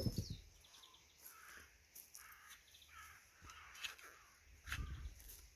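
Crows cawing repeatedly in the background, with a couple of low dull thuds, at the start and near the end.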